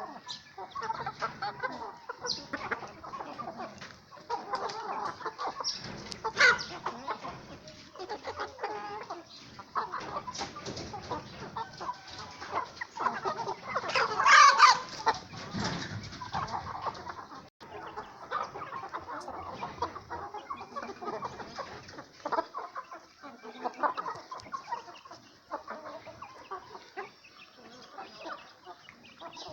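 Flock of hens and roosters clucking continuously, with one louder, longer call about halfway through.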